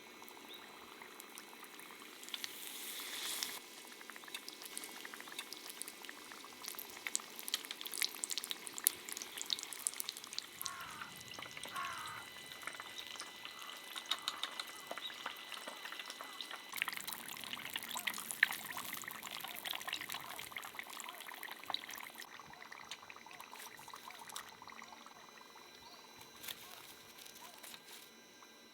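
Food frying in hot oil: a steady sizzle with dense crackling.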